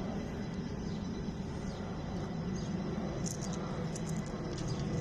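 Steady low rumble of distant engines, with a few short high chirps about three seconds in and again near the end.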